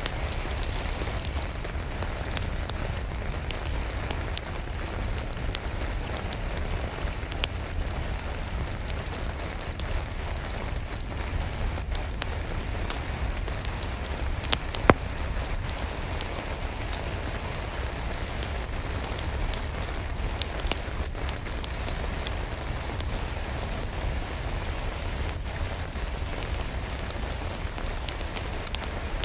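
Steady rain falling, mixed with a crackling wood fire that gives scattered sharp pops, one louder pop about halfway through.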